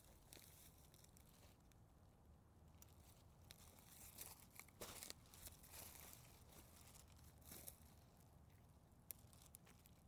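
Faint rustling and crackling of dry material, as of someone moving through leaf litter and brush, with a few louder crackles in the middle and a single sharp click near the end.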